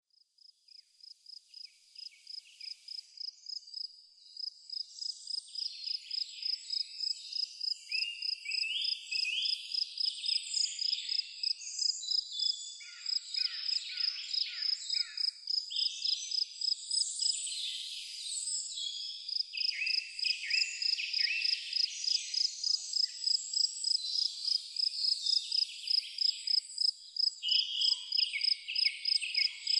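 A cricket chirping steadily on one high note, about two chirps a second, with several birds singing varied phrases over it. The sound fades in over the first few seconds.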